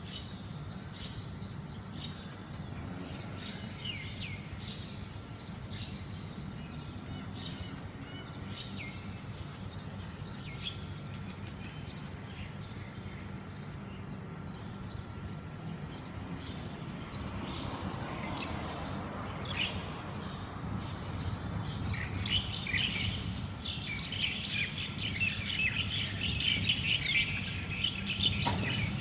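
Oriental magpie-robins calling and chattering during a fight between two pairs. The calls are sparse at first, then grow loud and dense about three quarters of the way through, over a steady low background hum.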